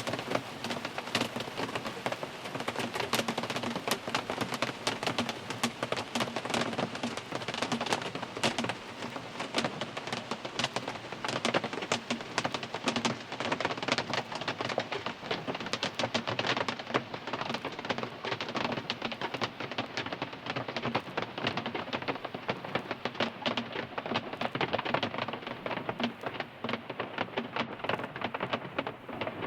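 Rain falling on a car, heard from inside the cabin: a steady, dense patter of drops striking the roof and glass.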